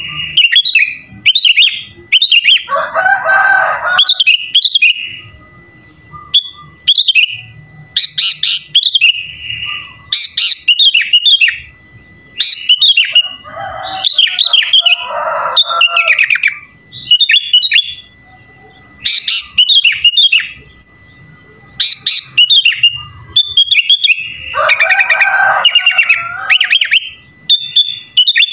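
Sooty-headed bulbul (kutilang) singing a lively song rich in mimicked phrases (isian): short repeated chirpy notes with brief pauses, and three fuller, denser passages that reach lower in pitch.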